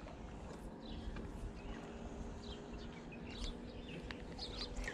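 Faint bird chirps, short and scattered, over a low steady outdoor rumble.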